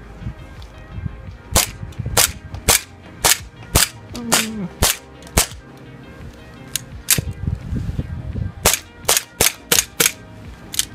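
Airsoft gun fired in single shots: about seventeen sharp cracks at roughly two a second, in two strings with a short pause between them.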